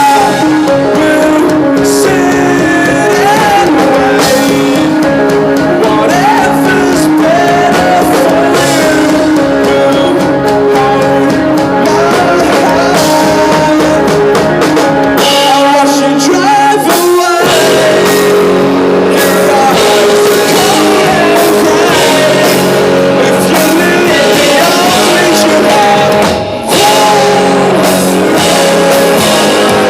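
A rock band playing live: electric guitar and drum kit with singing. The low end drops out for a brief break about halfway through before the full band comes back in.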